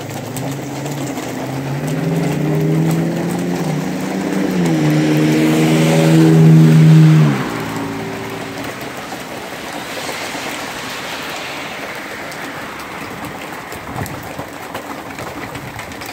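Heavy rain pouring down steadily on wet pavement. Over it, a passing vehicle's engine hum grows louder for about seven seconds, drops in pitch about halfway through and cuts off suddenly, with the hiss of tyres on the wet road.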